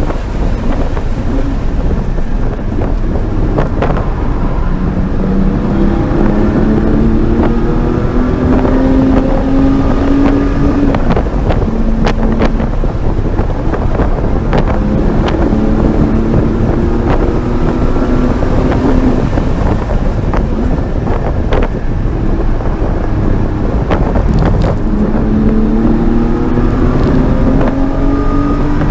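Porsche Cayman GT4's flat-six engine heard from inside the cabin at track speed, its note climbing under acceleration and dropping back at each upshift, several times. Steady wind and tyre noise and occasional short knocks from the road run underneath.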